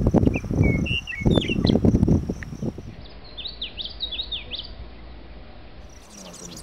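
Birds calling. For the first three seconds their chirps sit over loud, choppy low rumbling. After that come several quick, repeated call notes that slide down and up in pitch over a quieter background.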